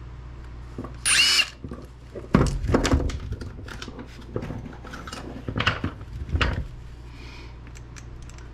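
Power drill whining in a short burst about a second in, then knocks and rattles of hard parts being handled, over a steady low hum.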